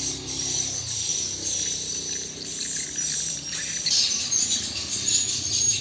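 Steady high-pitched chirping and trilling of small animals, with a low hum underneath.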